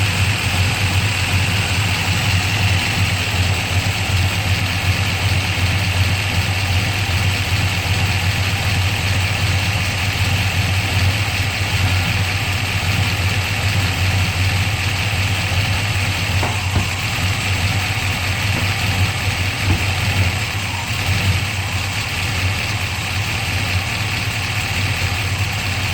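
383 small-block Chevy V8 with a solid-lifter camshaft idling steadily in gear, with freshly adjusted valves.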